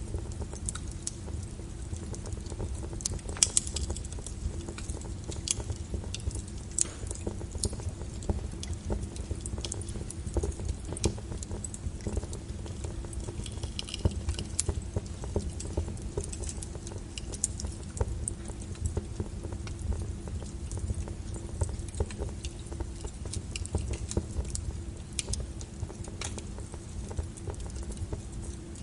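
Wood fire burning in a fireplace: a steady low rumble from the flames with frequent sharp crackles and pops at irregular moments, a few of them louder.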